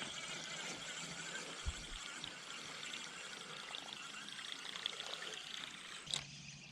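Water splashing and trickling in a steady, soft wash that eases off about six seconds in.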